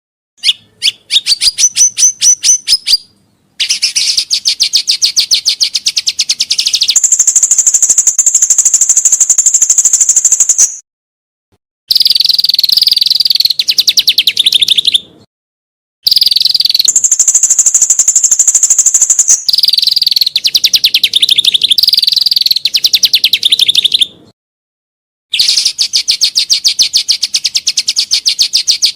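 Songbird song played as cage-bird training material: long, fast trills of repeated high chirps, some phrases sliding to a higher pitch partway through, in bursts of several seconds broken by short, abrupt silences.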